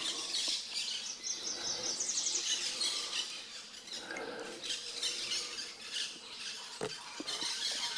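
A chorus of several wild songbirds chirping and whistling, with a fast high trill about two seconds in. A single soft knock comes near the end.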